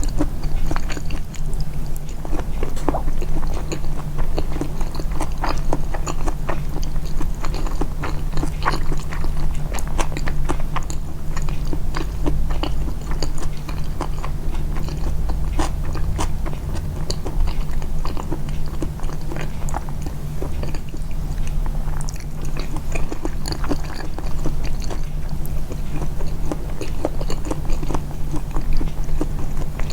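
Close-miked, amplified chewing and biting: a steady run of short, wet mouth clicks and soft crunches, over a constant low hum.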